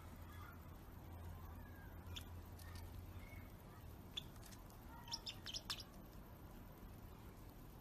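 Faint bird chirps: a few short high chirps, then a quick cluster of them about five seconds in, over a low steady hum.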